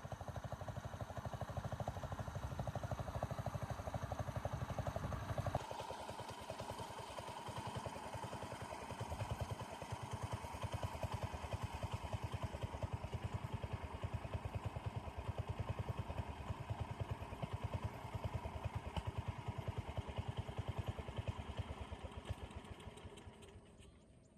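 Small engine running steadily with a fast, even pulse. Its note changes about five seconds in, and it fades away near the end.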